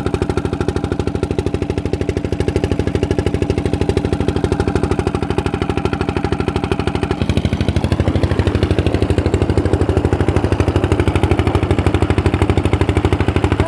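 Old stationary engine driving a tubewell water pump, running steadily with an even, rapid beat. Its tone shifts a little about halfway through.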